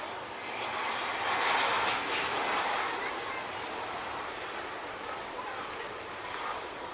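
Distant jet airliner engine noise, a steady rushing hiss that swells for a couple of seconds about a second in and then eases. A constant high-pitched insect buzz runs underneath.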